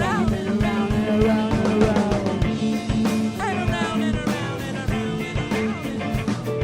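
A live band playing an instrumental funk-soul jam: a steady drum beat over bass and chords, with a lead line sliding up and down in pitch.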